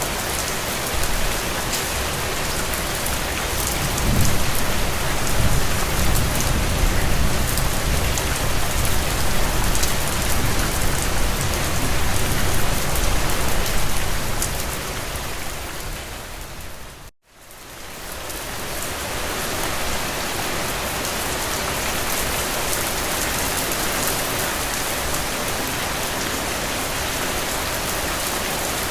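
Steady rain falling, an even hiss with a low rumble underneath for about ten seconds. About seventeen seconds in, the rain fades almost to nothing for a moment and swells back in, as at the join of a looped recording.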